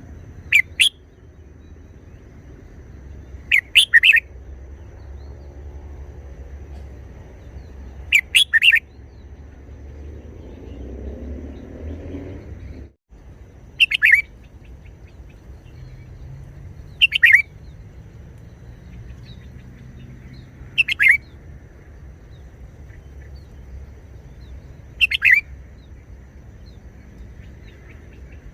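Red-whiskered bulbul singing short phrases, seven in all, one about every three to four seconds.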